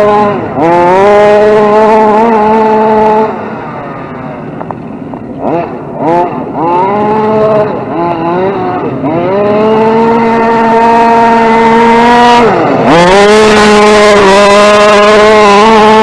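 RC short course truck's motor driven in throttle runs: a pitched whine that climbs quickly and holds steady, cut by a pause with short throttle blips near the middle and a brief dip near the end.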